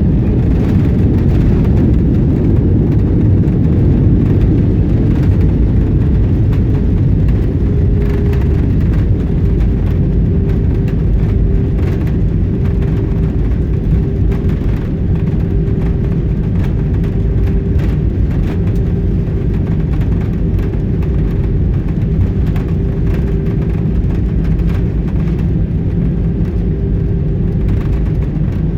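Steady low rumble of Airbus A320 cabin noise during landing, with a steady hum joining about seven seconds in.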